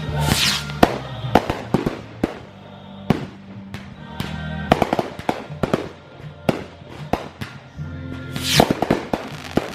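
A fireworks display: aerial shells bursting in a rapid irregular series of bangs and crackles, with a loud rushing hiss near the start and again near the end. Music plays underneath.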